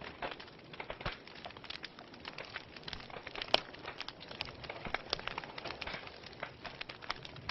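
Wood fire crackling in a fireplace: a soft steady hiss with irregular sharp pops and snaps, one louder pop about halfway through.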